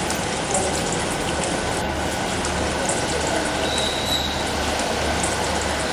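A diesel multiple unit pulling out of the station, its engines and wheels running steadily, with a brief faint high squeal about four seconds in.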